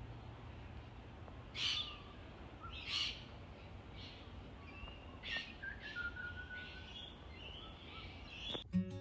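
Wild birds calling: two loud, harsh calls about a second and a half and three seconds in, then a run of shorter whistled and chirping notes, one sliding down in pitch. Acoustic guitar music comes in near the end.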